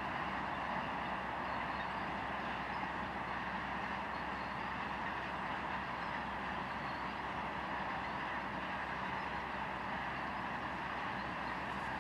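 Freight train tank cars rolling past: the steady, unbroken running noise of steel wheels on rail.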